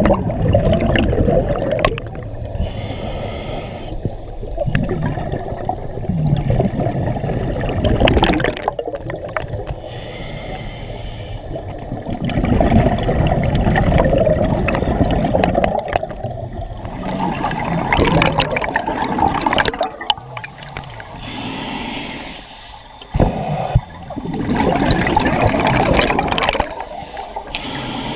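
Scuba breathing heard underwater: a diver's regulator and exhaled bubbles gurgling in repeated uneven bursts every few seconds.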